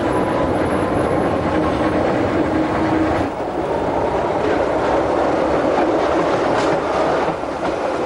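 Wengernalpbahn electric rack-railway train running on the line, with a steady hum that drops away about three seconds in and a few clicks from the wheels near the end.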